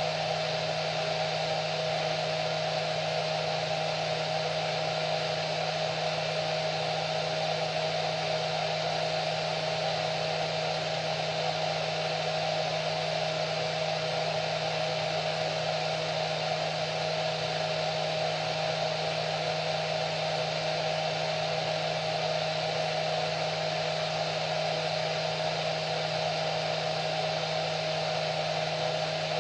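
Hair dryer running continuously at a constant speed: a steady rush of air with an even motor hum and a high whine, no change in pitch or level.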